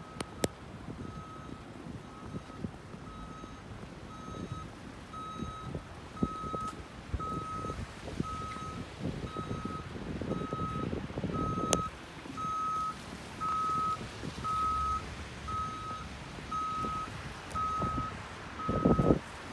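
A vehicle's reversing alarm beeping on one tone about once a second, growing louder toward the latter half, over a low rumbling noise.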